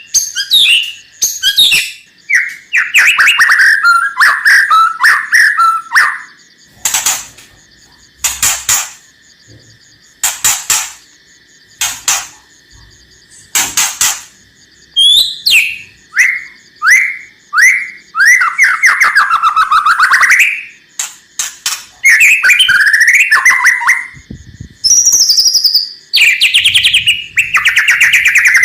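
White-rumped shama (murai batu) singing: loud whistled phrases broken by single harsh rasping notes about a second and a half apart, with a fast rattling trill near the end. These harsh 'kretekan' notes are used as a lure to provoke other shamas into singing.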